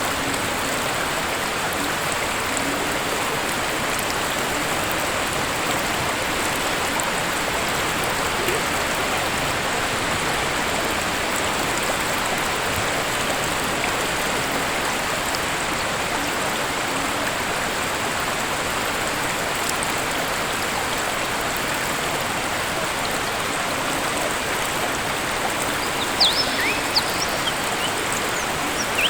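Waterfall's steady rush of falling water. A few short, high bird chirps come in near the end.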